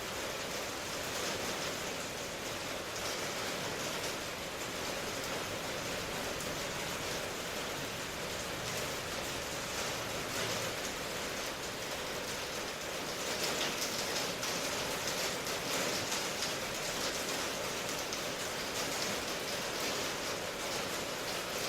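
Steady rainfall, an even hiss of rain with fine pattering drops, a little heavier from about halfway through.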